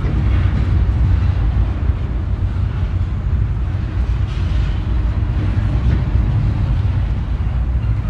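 Double-stack container freight train rolling past, a steady low rumble from its cars and locomotives.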